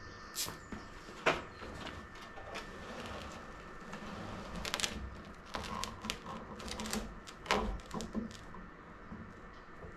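Scattered clicks, taps and plastic rattling from hands-on work, plausibly plastic cable ties being threaded and ratcheted tight. A faint steady high tone hums underneath.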